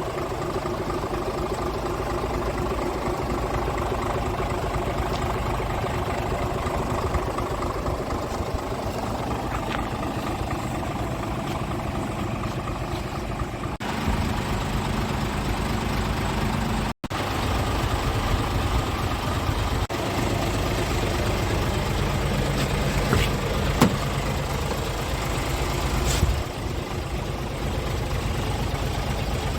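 Scania R450 tractor unit's 13-litre six-cylinder diesel idling steadily. The sound breaks off for a moment just past halfway, and a few short clicks come near the end.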